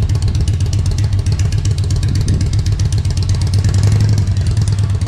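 A car's engine running loudly at low speed with a deep, steady exhaust note and rapid firing pulses.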